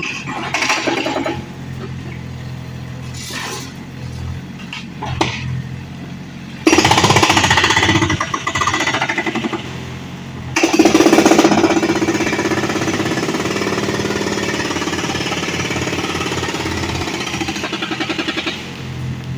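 Excavator engine running with a few knocks. From about seven seconds in, a hydraulic breaker hammers rapidly, with a brief pause about halfway, and stops shortly before the end.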